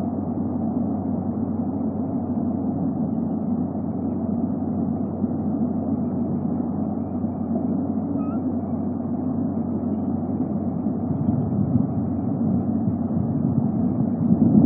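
Steady low rumbling background noise that stays level throughout, with one short faint high note about eight seconds in.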